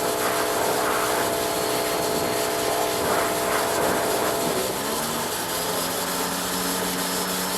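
Gas-engine pressure washer running steadily over the hiss of its water spray; about five seconds in, the engine note changes and settles into a lower, steady tone.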